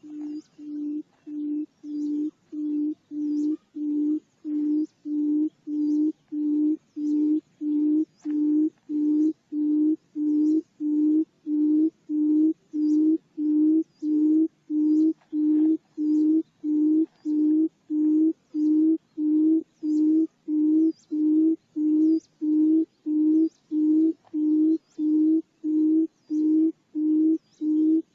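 Barred buttonquail's booming call: a long run of short, low, hollow hoots, evenly spaced at a little under two a second, growing louder over the first several seconds and then holding steady. It is a lure call played to draw buttonquail into a trap.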